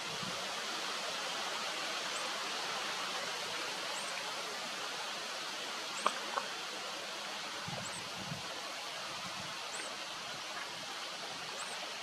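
Steady outdoor background hiss, like running water, with a short high chirp repeated about every two seconds and two faint clicks about halfway through.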